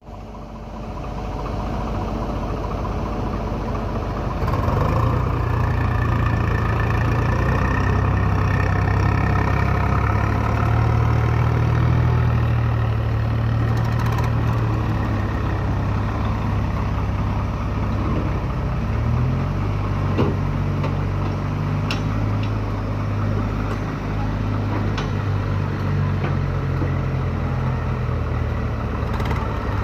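Diesel engine of a tractor or backhoe loader running steadily, rising in speed about five seconds in and shifting in pitch about two-thirds of the way through, with a short knock shortly after.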